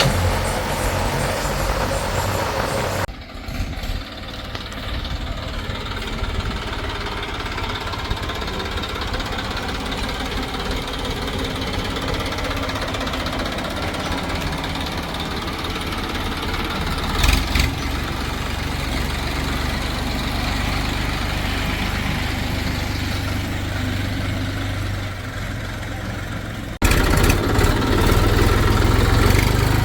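Diesel engines of heavy earthmoving machinery running steadily. The sound changes abruptly about three seconds in and again near the end, and there is one brief sharp knock a little past halfway.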